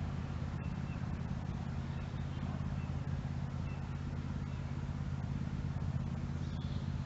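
Steady low mechanical hum with a few faint, short bird chirps now and then.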